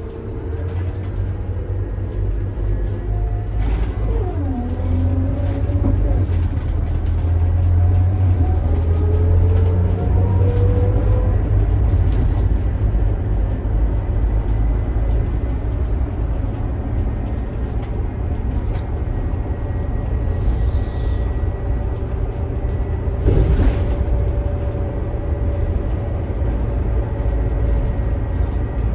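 Scania K280IB bus's DC9 five-cylinder turbo-diesel and ZF Ecomat six-speed automatic running under way: a steady low engine rumble with a whine that drops sharply about four seconds in and then climbs again, and scattered short knocks and rattles.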